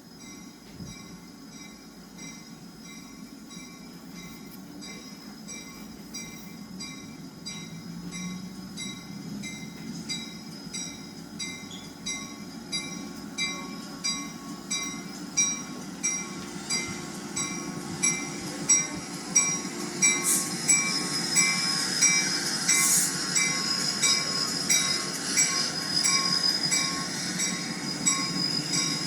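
Railroad crossing bell ringing steadily at about two strikes a second, growing louder, over the low rumble of a slow freight train running in the street.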